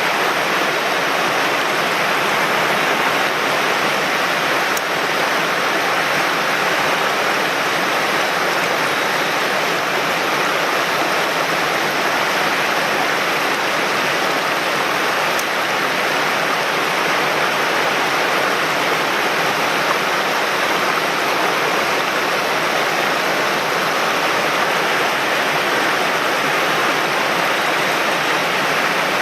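Steady rush of a mountain stream's water running over rocks, loud and unbroken.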